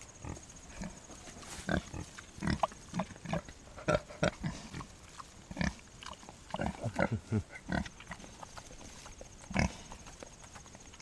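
American Guinea Hogs, a sow with her newborn piglets, grunting in short, irregular calls.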